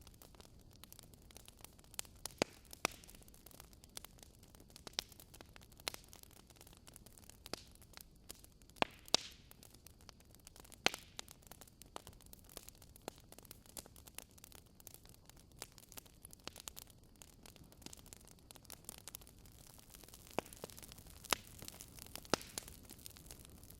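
Wood fire in a fireplace crackling: irregular sharp pops and snaps over a soft steady hiss of the flames.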